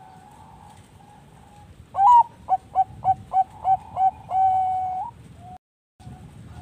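Zebra dove singing: one loud opening coo, then a quick run of about six short clipped notes, ending in one long held note. Fainter coos of other doves go on behind it. Near the end the sound cuts out completely for a moment before the faint cooing returns.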